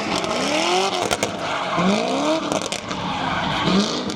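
A car doing donuts: the engine revs up in repeated rising sweeps, about one every two seconds, over a steady hiss of spinning tyres.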